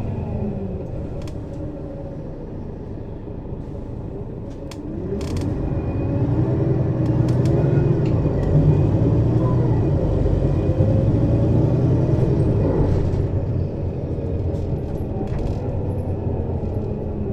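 Mercedes-Benz Citaro city bus's diesel engine heard from above the engine compartment, running down at first, then pulling harder from about four seconds in with its pitch rising and dipping as the ZF Ecomat automatic gearbox works through the gears, easing off near the end.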